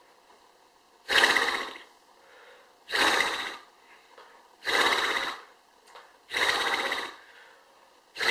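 A person imitating an animal call with the voice: five short, loud, raspy calls, evenly spaced about every second and three-quarters.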